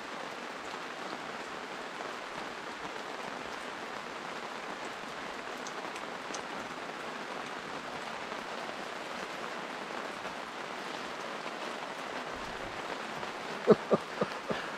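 Steady rain falling, an even hiss of drops. Near the end, a few sharp knocks close to the microphone stand out above it.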